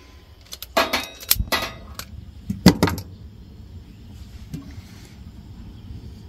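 Cooking gear being handled and set down: a quick run of knocks and clinks, some briefly ringing, over the first three seconds, the loudest just before the three-second mark, then only a low steady background.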